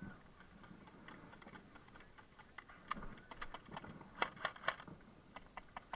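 Airsoft gun firing an irregular string of single shots, heard as sharp clicks several times a second, most closely spaced between about three and five seconds in.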